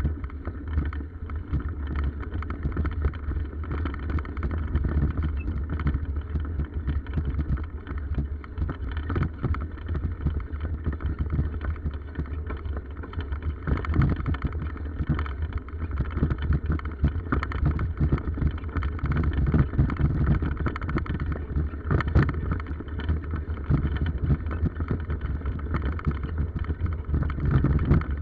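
Steady wind rumble buffeting the microphone, with constant rattling and small knocks, as from a camera carried on a bicycle ridden over a rough forest track.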